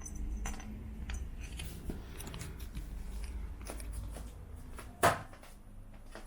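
Close handling noise while a cat is petted beside the camera: soft rustling of fur and small clicks and taps, with one short, sharp, loud sound about five seconds in.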